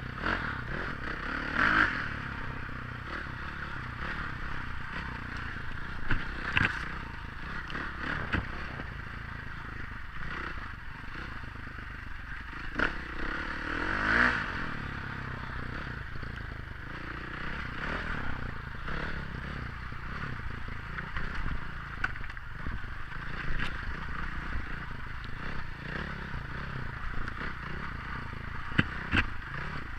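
Dirt bike engine running on a trail ride, rising briefly in pitch a couple of times, mixed with steady scraping and clattering.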